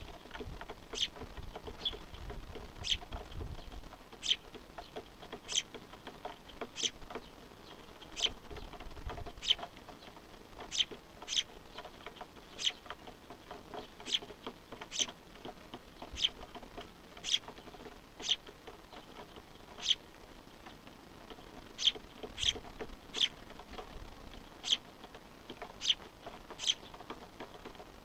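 A fledgling bird repeating short, sharp begging calls, about one a second, asking its parents for food.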